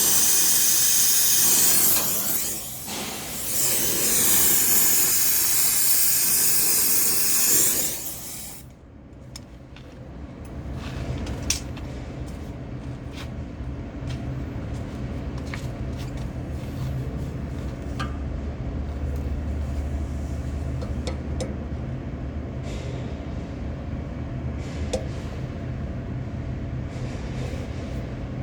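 Gas brazing torch hissing steadily on refrigerant copper pipe, dipping briefly a couple of seconds in and cut off about eight seconds in. After that a low steady hum remains, with scattered small clicks.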